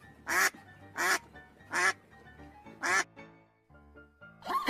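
Mallard hen quacking four times, the calls about three quarters of a second apart with a longer pause before the last. Another animal's call begins just at the end.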